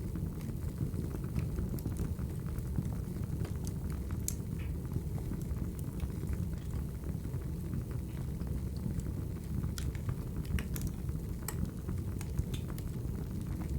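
Wood fire in a fireplace crackling: a steady low rumble of burning with scattered sharp pops and snaps throughout.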